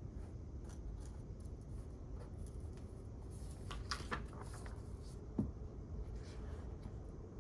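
Quiet library room tone with a steady low hum, faint scattered clicks and a brief rustle, and one soft knock about five seconds in.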